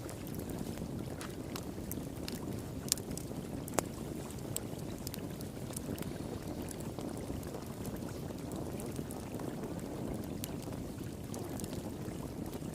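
Wood fire crackling with scattered sharp pops, over the steady rush of flowing water. Two louder pops come about three and four seconds in.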